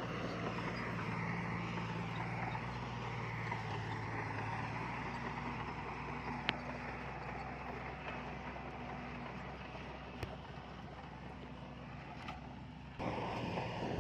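Heavy diesel earthmoving machinery running steadily, its low engine hum easing after about five seconds, with a few sharp knocks. Near the end the sound changes abruptly to a louder, rougher engine noise.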